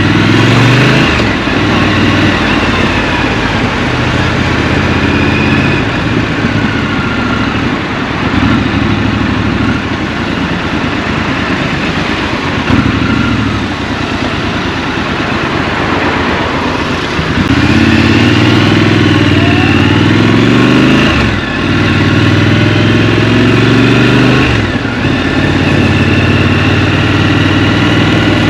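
Scrambler motorcycle engine running through city riding, heard from the rider's seat over wind and road noise. It runs lower and steadier through the middle, then accelerates twice in the last third, its pitch climbing and dropping sharply at each gear change.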